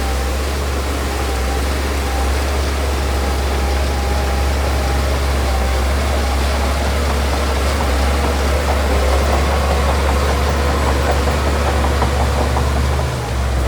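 Heavy diesel engine of earthmoving machinery running steadily with a deep rumble, growing slightly louder and busier in the second half.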